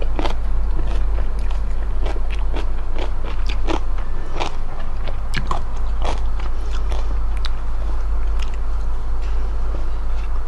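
Close-miked eating of smoked chicken: bites and chewing with many sharp, irregular mouth clicks and crunches, over a steady low hum.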